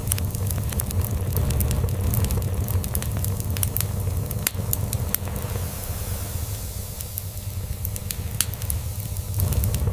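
Wood log fire crackling, with irregular sharp pops and snaps, over a steady low rumble of a cat purring.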